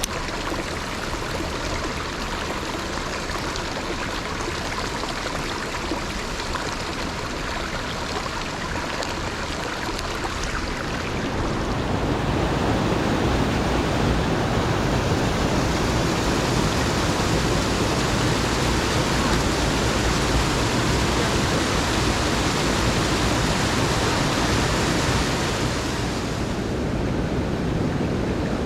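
Headwater mountain stream rushing steadily, growing louder and deeper from about twelve seconds in, then easing a little near the end.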